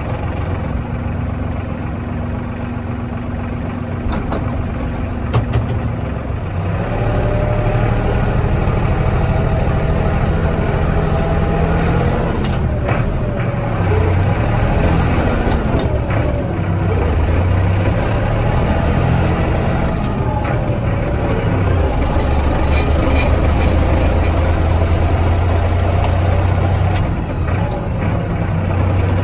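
Kioti DK65 tractor's diesel engine running steadily, with scattered knocks and clanks. A higher whine joins about seven seconds in and fades around twenty seconds.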